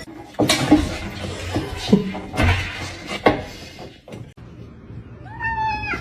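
Several knocks and clatters over a steady background noise, with a short pitched call near the end.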